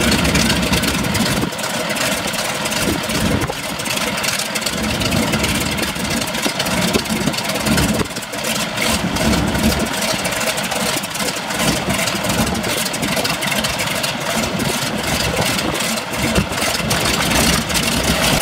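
Pratt & Whitney R-985 Wasp Junior radial engine of a Boeing PT-17 Stearman biplane running steadily at low power.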